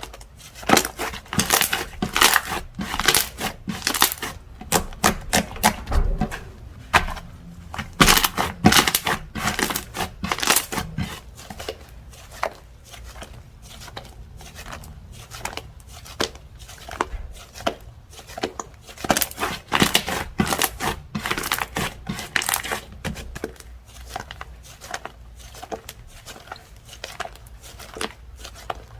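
Slime being squeezed, poked and stretched by hand, making rapid clicking and popping sounds in bursts. The clicking is densest through the first ten seconds or so and again a little before the middle of the second half, thinner in between and near the end.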